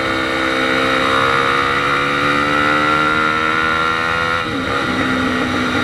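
Honda XR 250 Tornado's single-cylinder four-stroke engine pulling hard under throttle, its pitch climbing slowly, with a quick dip and recovery at an upshift about four and a half seconds in. Steady wind rush underneath.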